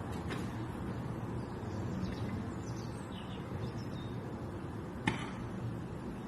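Small birds chirping faintly and intermittently over a steady low rumble, with one sharp short chip about five seconds in.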